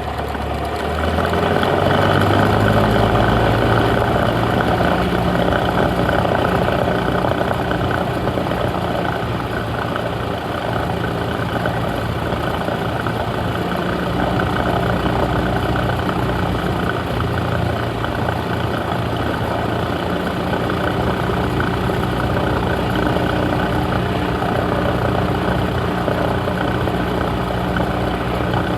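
Cessna 172's piston engine and propeller running steadily with a constant drone; the engine speeds up and gets louder about a second in.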